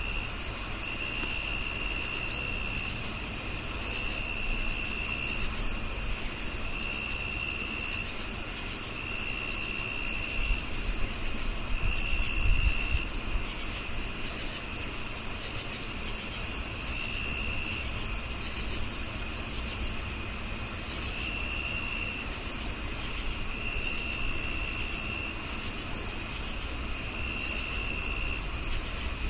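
Chorus of crickets: a continuous high trill, a second cricket chirping regularly about three times a second, and a lower trill coming in pulses of a second or so every couple of seconds.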